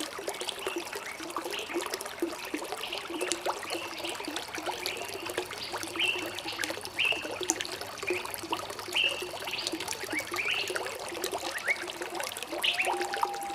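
Small stream trickling and gurgling, with birds chirping short, repeated high notes through the middle. A steady, lower held tone comes in near the end.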